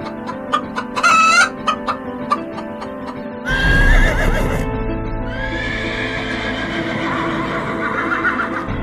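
Animal calls over background music: short, sharp calls in the first few seconds, then a louder, longer call with a wavering pitch starting about three and a half seconds in.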